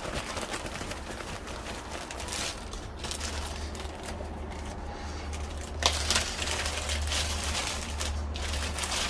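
Floured chicken pieces deep-frying in a pot of hot oil: a steady crackling sizzle, with a sharper click about six seconds in and a low hum underneath.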